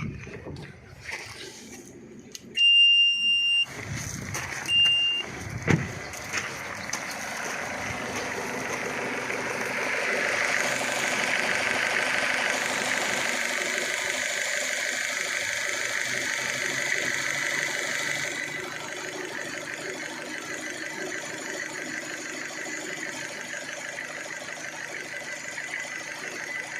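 Two short high electronic beeps, then a Renault Duster's 2.0-litre petrol engine starts and runs at a raised idle, which steps down to a quieter, steady idle about two-thirds of the way through.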